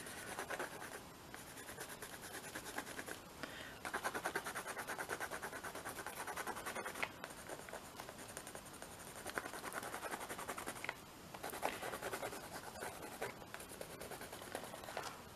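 Watercolour pencil shading back and forth on a gesso-primed art-journal page: rapid scratchy strokes in runs, broken by brief pauses.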